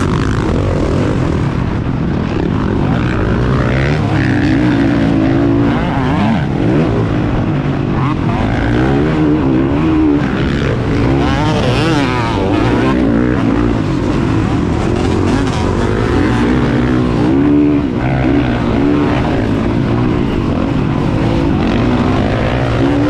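Motocross bike engine revving hard, its pitch rising and falling again and again as the throttle opens and closes through the track.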